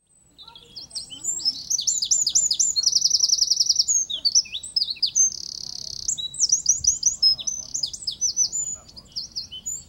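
A songbird singing a fast, varied, high-pitched song of rapid notes and slurs, with a quick trill and a buzzy stretch midway, fading out near the end.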